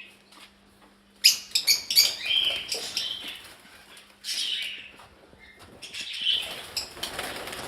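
Parrots in an aviary chirping in several short bursts, with wings flapping and sharp clicks.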